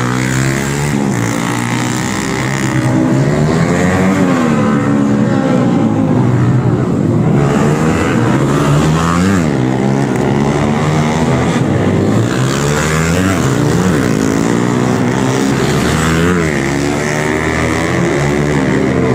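Several racing motorcycle engines revving, their pitches rising and falling over one another as the bikes accelerate and pass.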